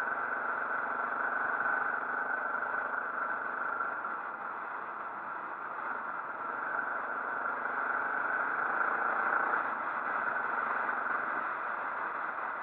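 Motorcycle engine running under a steady rushing noise, its pitch shifting slightly around the middle.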